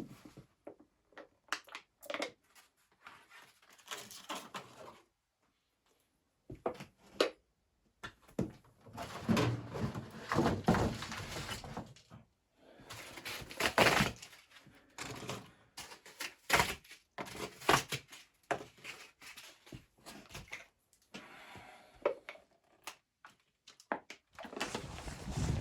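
Irregular knocks, thunks and clicks with stretches of rustling, like objects being handled and set down in a small room.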